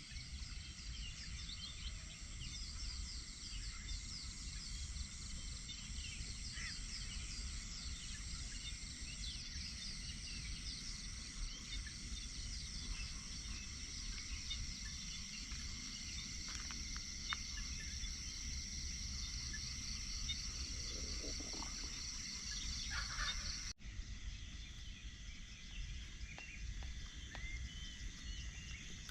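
Rural dawn ambience: many small birds chirping over a steady high insect hum and a low background rumble. The sound drops out for an instant about 24 s in, then carries on.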